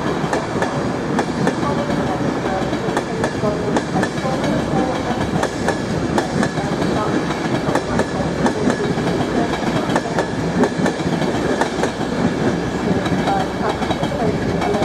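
Train running along the track: a steady rumble with frequent clicks of the wheels over track joints.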